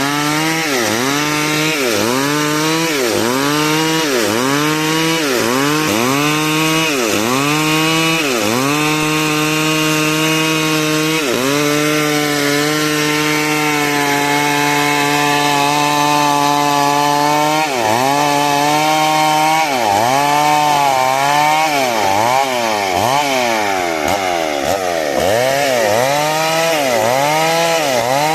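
Chainsaw cutting wood into 5×5 cm battens, the engine pitch dipping under load and picking up again about once a second. It holds a steady pitch for several seconds midway, then dips faster, about twice a second, near the end.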